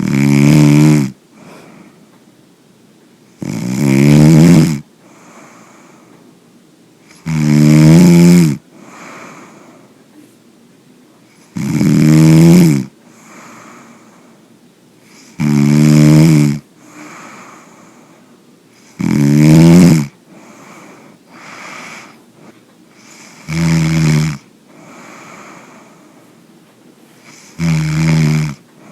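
Snoring in a steady rhythm: eight loud, rattling snores of about a second each, one roughly every four seconds, with faint breaths between them.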